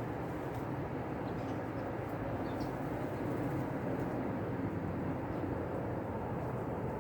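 Steady low background rumble with a few faint, short, high bird chirps about one and a half and two and a half seconds in.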